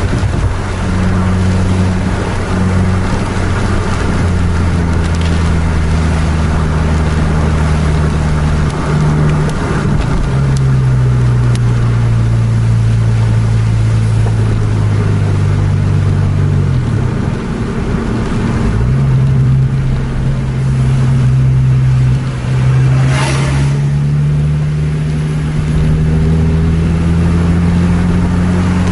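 Road vehicle engine and tyre noise heard from inside the vehicle, driving at speed on a rain-wet road with a steady hiss from the wet tyres. The engine note drops about a third of the way in and again past halfway, then climbs slowly to the end. There is a short swish about three-quarters of the way through.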